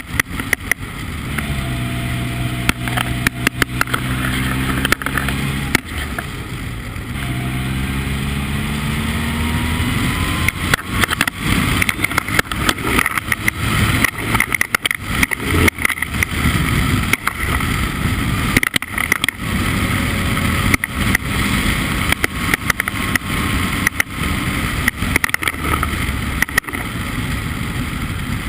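Formula Ford race car engine pulling at speed, its pitch climbing twice in the first ten seconds, under heavy wind buffeting on the microphone.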